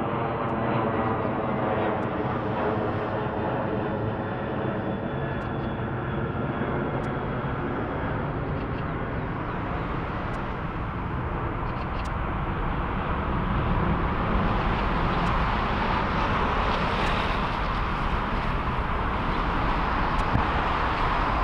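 Jet airliner engines: a stack of engine tones drifting slowly downward at first, then a rushing jet roar that grows louder from about halfway through.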